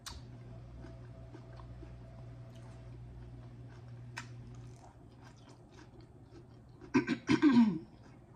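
Close-up chewing of crisp lettuce salad, with many small crunches, over a low steady hum from a washing machine that stops about five seconds in. Near the end comes a loud closed-mouth hum of the voice.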